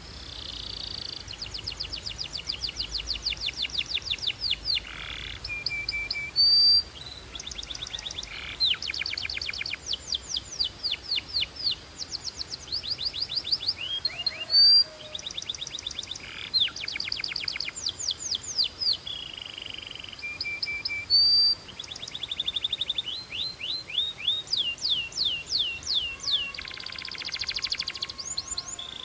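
Belgian canary singing a continuous song: fast trills of rapidly repeated down-sweeping notes, with brief, louder high whistled notes between some phrases.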